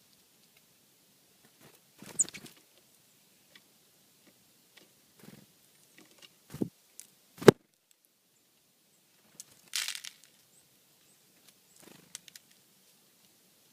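Birds feeding on scattered seed close to the microphone: small scattered taps and rustles of pecking and scuffling, with a sharp knock about seven and a half seconds in and a brief rushing noise near ten seconds.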